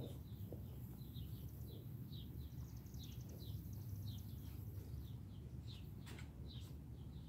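A small bird chirping over and over, short falling notes about twice a second, over a low steady outdoor rumble. A single click about six seconds in.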